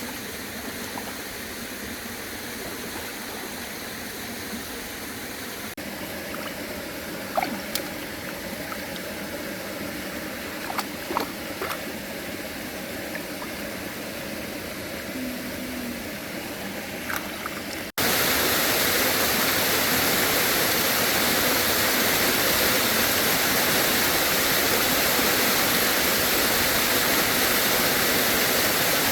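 Steady rushing noise like flowing water, with a few short knocks between about 7 and 12 seconds in. About 18 seconds in it cuts suddenly to a louder, fuller rush.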